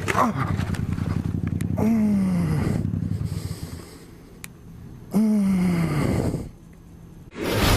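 Motorcycle engine running, its pitch falling twice in short drops, the second a near-repeat of the first.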